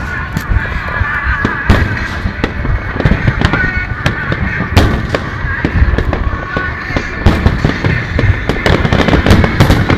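Dense fireworks barrage: aerial shells launching and bursting in rapid succession, with loud booms over a continuous rumble and crackle, and music playing underneath.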